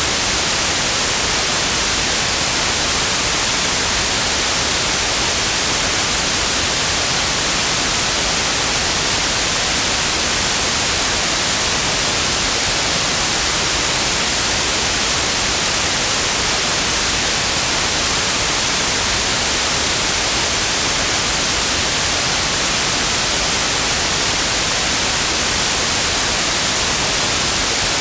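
Steady synthetic white noise: an even hiss, bright and strongest in the high frequencies, with no change in level.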